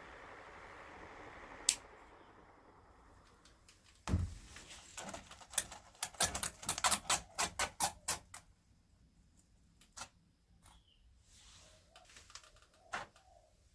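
Sharp clicks and taps: one click, then a thump about four seconds in, followed by a quick run of clicks that thins out to a few scattered ones.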